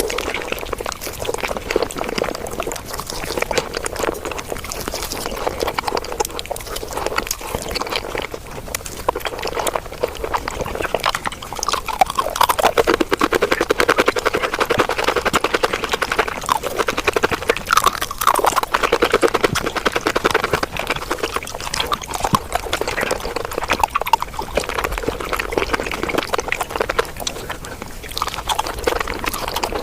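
Close-miked mukbang chewing and mouth sounds sped up five times, so the wet chewing and smacking run together into a fast, dense chatter of clicks.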